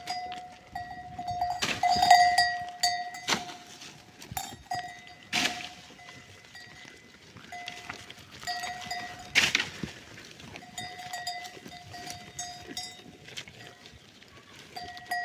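A small metal bell clanking irregularly in short rings, with scattered knocks and rustles.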